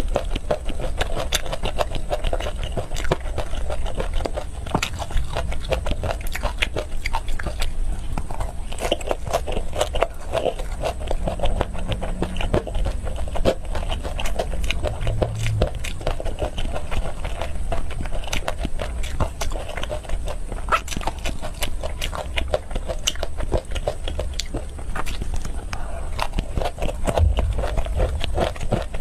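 Food being bitten and chewed, with a dense run of sharp, crackling clicks throughout.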